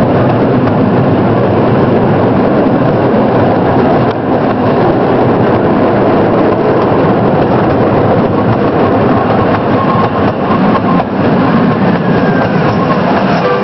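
Small ride train running steadily along its track: a continuous rumble of wheels on the rails with the noise of the moving car.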